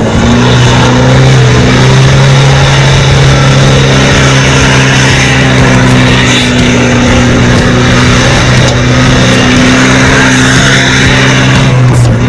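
Four-wheel-drive ute's engine held at high, steady revs as it spins doughnuts in soft beach sand, with a rushing noise over it.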